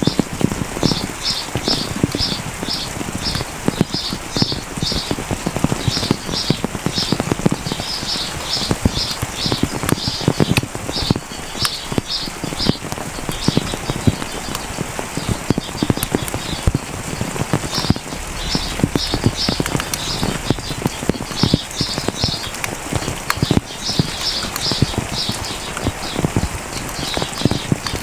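Rain pattering, with many close drops striking and splashing. Over it a bird calls in runs of short, high repeated notes, about four or five a second, falling mostly quiet for a few seconds around the middle.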